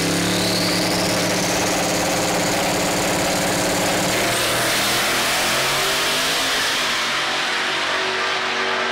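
Twin-turbo LSX V8 of a Chevy S10 drag truck held at steady high revs, with a whine rising above it. About four seconds in, the steady note breaks up into a loud rushing engine noise that loses its high end near the end.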